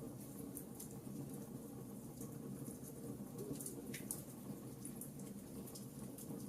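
Wood fire burning in a fireplace, with a steady low rumble of the flames and many small, irregular crackles and pops.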